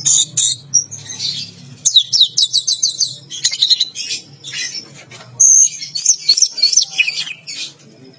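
Orange-headed thrush (anis merah) singing a loud, varied song of chirps and whistles, with a fast run of repeated notes about two seconds in and a held high whistle in the second half.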